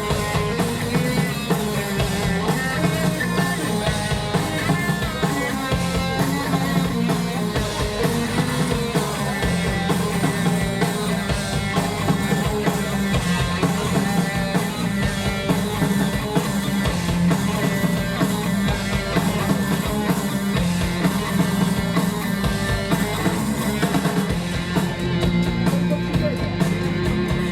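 Rock band playing live with electric guitar, bass and drum kit, an instrumental passage with no clear vocals.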